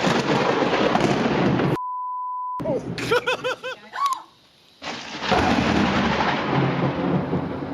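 Thunder rumbling with rain noise just after a very close lightning strike, cut off about two seconds in by a censor beep and then a brief voice. After a short gap, a second long rumble of thunder and rain starts and slowly fades.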